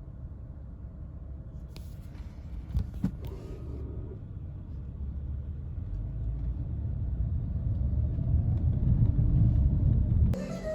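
Low rumble of a vehicle ride, growing louder toward the end and cutting off suddenly, with two sharp knocks about three seconds in.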